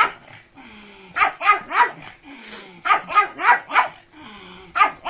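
Pug barking in quick runs of three or four short sharp barks, about three barks a second, with brief pauses between the runs.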